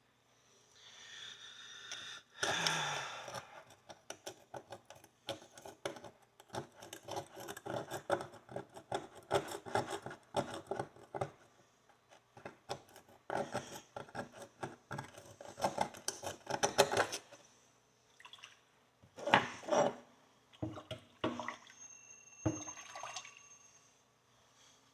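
Hand tool scraping and clicking rapidly against an old metal horseshoe to work gunk loose, with some water splashing from the bleach solution it is being cleaned in. The scraping pauses briefly, then goes on in a few separate strokes near the end.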